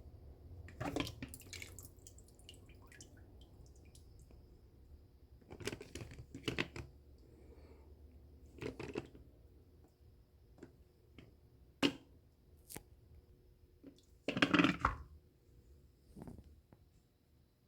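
Water splashing and sloshing in the tub of an Electrolux LTE12 top-load washing machine during its wash cycle, in short separate bursts every few seconds, over a low hum that fades out about halfway through.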